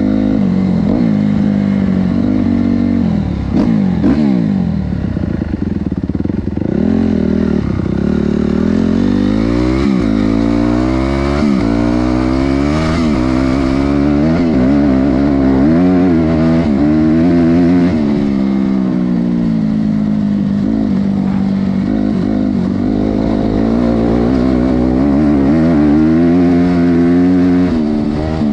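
Honda CRF250R's single-cylinder four-stroke engine ridden hard, its revs climbing and dropping over and over as the throttle is worked.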